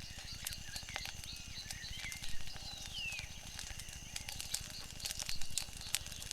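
Wood fire crackling with frequent sharp pops over a steady low rumble, while small birds chirp, one with a falling call about three seconds in.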